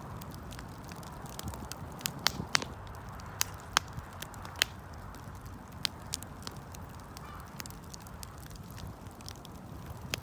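Wood campfire crackling: irregular sharp pops and snaps over a steady low rustle of burning, the loudest pops a little under four seconds in.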